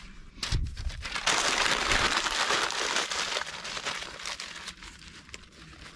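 Newspaper being crumpled and crinkled: a dense papery rustle starting about a second in, loudest for about two seconds, then thinning to scattered crackles.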